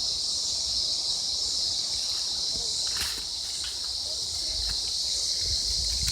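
Steady, high-pitched drone of an insect chorus in woodland, with a faint knock about halfway through.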